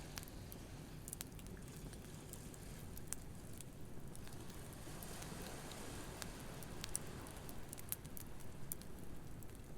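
Beach campfire crackling with scattered sharp pops over a steady low wash of ocean waves.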